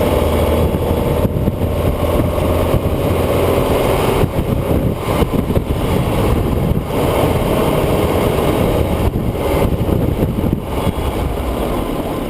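Vehicle being driven along a winding road: its engine runs steadily under a continuous rumble of road and wind noise.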